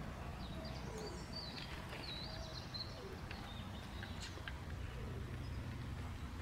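Small songbirds chirping and singing in short, high notes, over a steady low rumble. The chirps thin out in the last couple of seconds.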